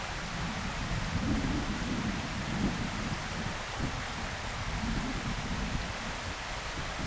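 Wind gusting against the microphone: irregular low rumbling swells over a steady outdoor hiss.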